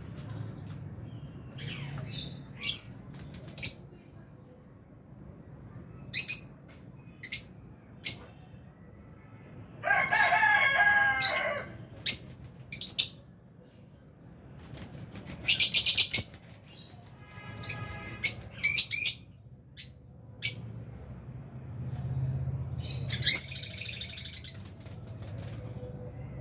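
Lovebirds in an aviary calling: sharp high-pitched chirps, singly and in quick runs, with a longer, lower call about ten seconds in.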